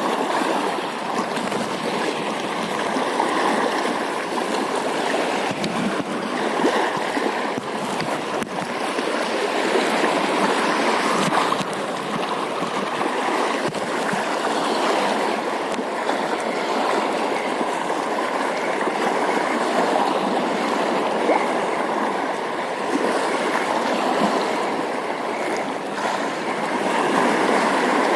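Steady rush of running water, an even noise with no strong lapse or change.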